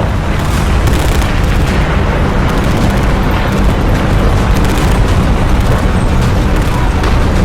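Loud, continuous rumbling explosions.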